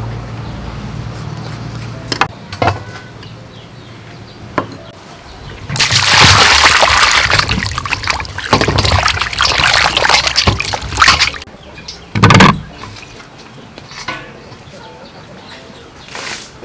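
Water splashing and sloshing for about five seconds from around six seconds in, then a single loud knock. Smaller clicks and knocks come before and after.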